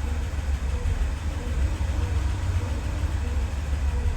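1988 Nissan Pathfinder's engine idling with a steady low rumble.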